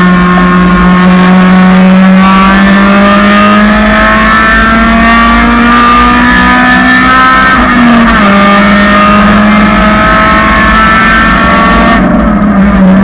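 1999 Honda Civic's four-cylinder engine running loud under hard acceleration, its note climbing slowly. A quick upshift about eight seconds in drops the pitch, and the note then climbs again.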